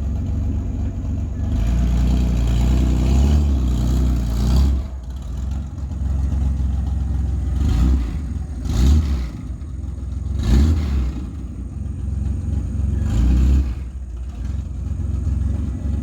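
Truck engine idling and being revved: one long rev lasting about three seconds, then several short blips of the throttle, each dropping back to idle.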